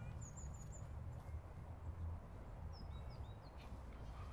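Small birds chirping faintly over a steady low outdoor rumble: a quick run of four high chirps near the start, then a few more about three seconds in.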